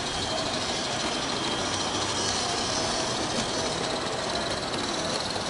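Model train running on a garden railway track, a steady mechanical running noise.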